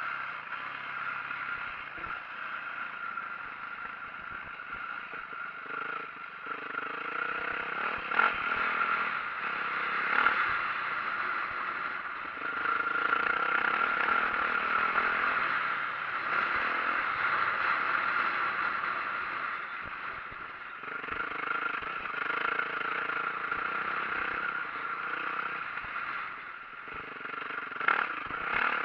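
2004 Yamaha YZ450F dirt bike's four-stroke single-cylinder engine running while being ridden on a trail, its pitch rising and falling with the throttle. Rattling and scraping run through it, with a few sharp knocks.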